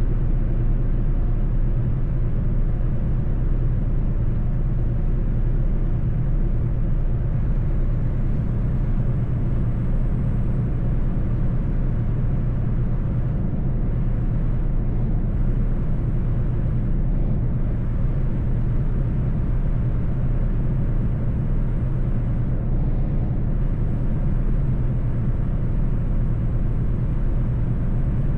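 Mercedes-Benz truck driving along the road: a steady low drone of diesel engine and road noise, with no change in pitch or level.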